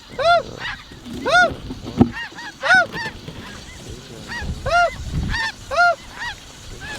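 Snow goose calls: high, yelping honks repeated about once a second, with one sharp click about two seconds in.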